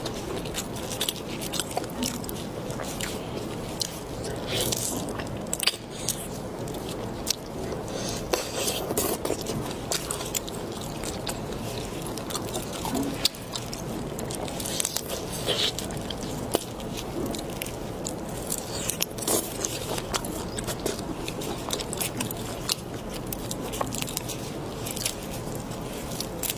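Close-miked eating sounds: biting and chewing raw drunken shrimp, with frequent sharp, irregular crunches and clicks of shell.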